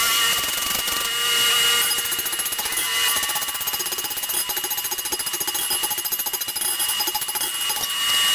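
Power hammer pounding a hot steel billet in quick, even strokes, starting about two seconds in, over a constant high whine.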